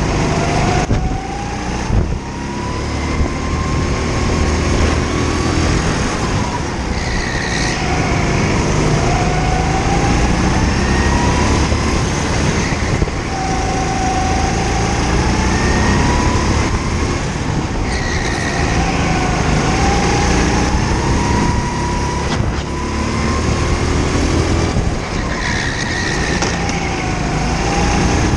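Go-kart engine heard onboard during a lap. Its pitch climbs on each straight and drops back when the driver lifts for a corner, over and over.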